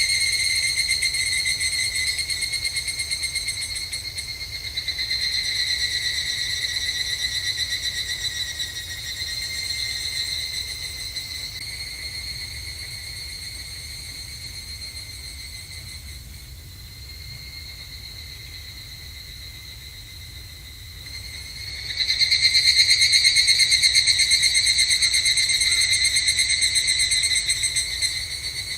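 Higurashi (evening cicadas) calling: a high, rapidly pulsing trill in phrases that start loud and fade away. The calls dwindle to a faint chorus in the middle, then a new loud phrase begins about three quarters of the way through.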